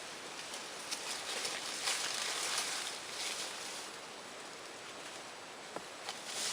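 Rustling in dry leaves and brush, a soft hiss with a few small ticks and snaps.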